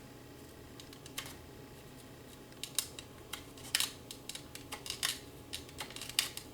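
Irregular sharp clicks and taps of a loose plastic piece from a Ford F150 door panel being handled, a few at first and then coming thick and fast from about two and a half seconds in.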